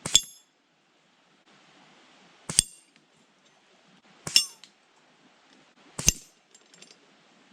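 Four pellet gun shots about two seconds apart, each a sharp metallic ping with a short ringing tail: pellets striking the targets during sighting-in.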